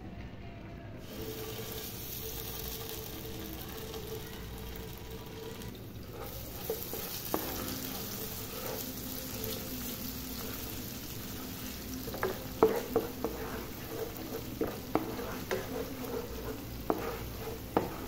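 Masala paste sizzling as it fries in hot oil in a nonstick pan. The sizzle starts about a second in. A spatula knocks and scrapes against the pan as the paste is stirred, more often in the second half.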